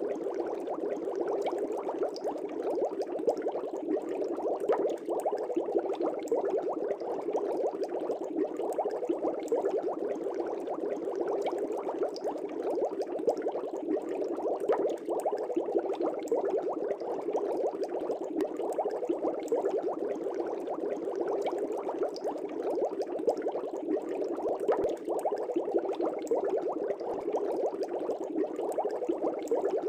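Aquarium air bubbles rising and breaking at the water surface in a fish tank: a steady, dense bubbling with many small pops.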